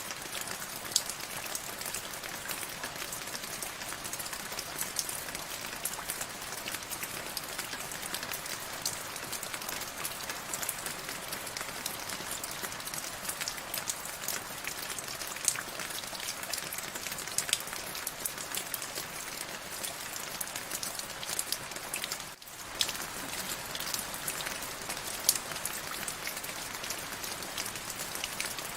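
Steady rain falling, an even hiss with many single drops ticking sharply through it. The level dips for a moment about three-quarters of the way through.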